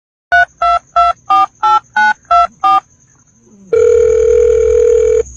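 Telephone keypad tones: eight short two-tone beeps in quick succession, about three a second. Near the end comes one long steady telephone tone.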